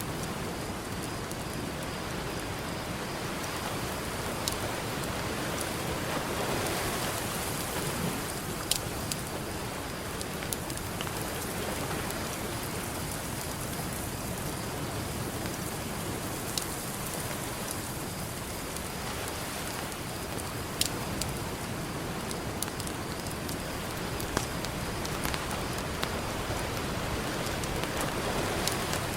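Campfire crackling, with a sharp pop every few seconds, over the steady wash of ocean surf that swells a couple of times.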